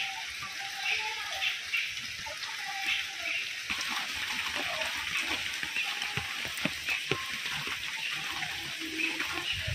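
Steady rain falling, an even hiss, with scattered light ticks and taps.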